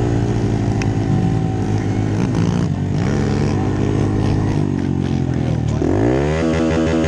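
Pit bike engines running, with more than one engine heard at once. One engine revs up sharply about six seconds in.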